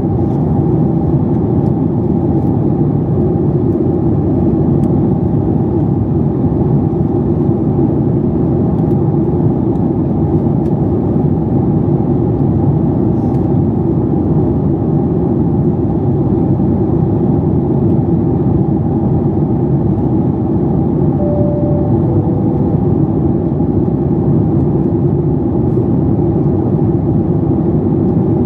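Steady cabin noise inside a Boeing 737 MAX 8, the drone of its CFM LEAP-1B engines and the airflow heard through the cabin wall. About 21 seconds in, a two-note cabin chime sounds, high then low.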